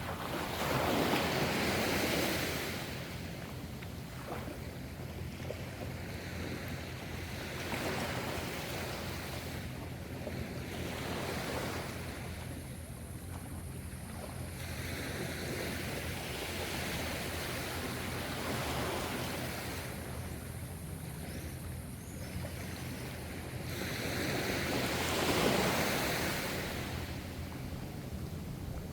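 Gentle sea waves breaking and washing, swelling and fading every few seconds, with the loudest surges about a second in and near the end.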